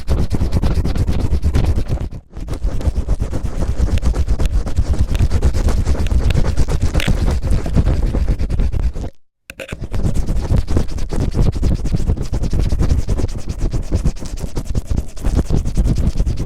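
Cellophane rubbed and crinkled right against the microphone in rapid scratchy strokes, imitating ear cleaning. The sound dips briefly about two seconds in and stops entirely for a moment around nine seconds.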